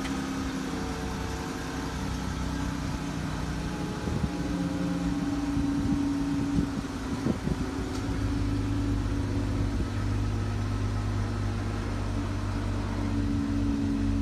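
Car engine idling after a cold start, a steady hum with a few short knocks in the middle; a deeper note joins the idle about eight seconds in.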